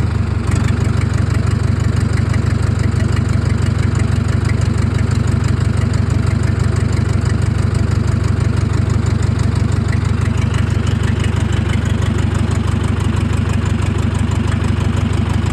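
Fendt tractor's diesel engine idling steadily.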